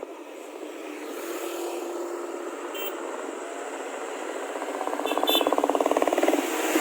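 Motorcycle engine running on the move, a rapid, even firing pulse that grows louder about five seconds in.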